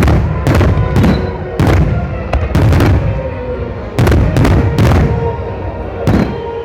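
Aerial fireworks shells bursting in quick succession, about a dozen loud booms with rumbling tails, coming in clusters roughly half a second apart. Music plays underneath.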